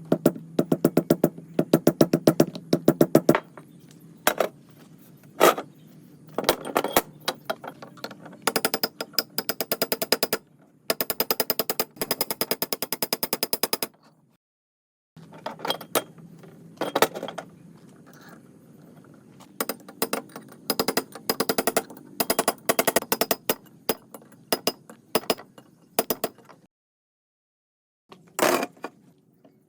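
Metal workshop tool noise in several short bursts: rapid, evenly spaced metallic clicking and rattling with some clatter, cutting off abruptly between bursts.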